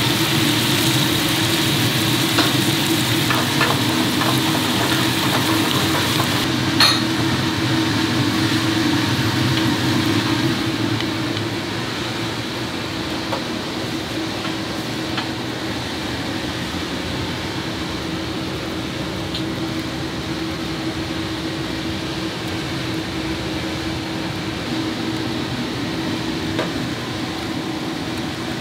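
Food sizzling in a hot pan while being stirred, over a steady machine hum. About ten seconds in the sizzle eases and the hum is left, with a single sharp click just before.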